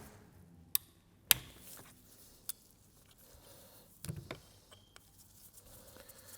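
A few sharp, separate metal clicks and taps from hand tools and parts being handled while an oil pump is dismantled, with a short cluster of knocks about four seconds in.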